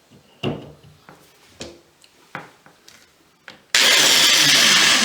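A few short scrapes and clicks of a tool working on the stripped old screw in the faucet core. Then, near the end, a power drill runs loud and steady for about a second and a half, tearing into the screw.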